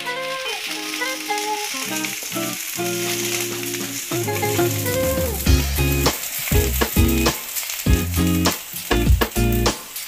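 Sliced shallots and garlic sizzling and frying in hot oil in a nonstick pan, stirred with a wooden spatula, with background music.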